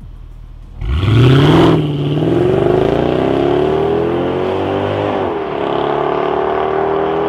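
Mercedes CLS 55 AMG's supercharged M113K V8 with its factory exhaust, rumbling low, then launching hard about a second in. The engine note climbs steadily, dips briefly at an upshift about five seconds in, then pulls on at a steady pitch.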